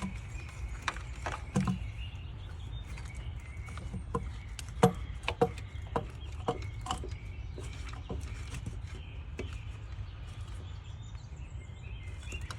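Hand tools working on the throttle body's mounting bolts: scattered metallic clicks and knocks, a cluster of sharper ones around the middle, over a steady low rumble.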